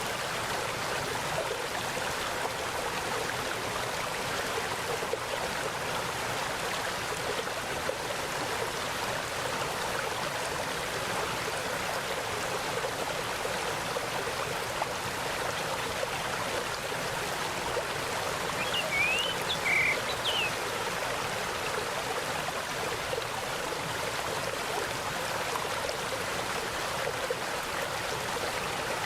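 Mountain stream flowing with a steady rush of water. A bird gives a brief cluster of chirps about two-thirds of the way through.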